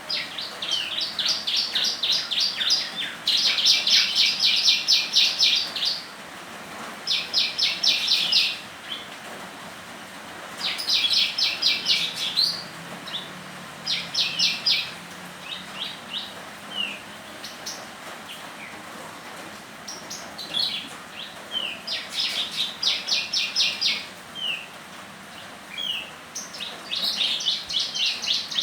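A songbird singing repeated bursts of rapid, high chirping trills, each one to three seconds long, with short single whistled notes in between.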